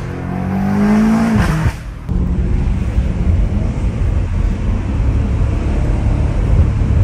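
BMW M5 Competition's twin-turbo V8, fitted with aftermarket air intakes, accelerating hard: the engine note climbs for the first second and a half, breaks off briefly around two seconds in, then carries on as a steady heavy rumble.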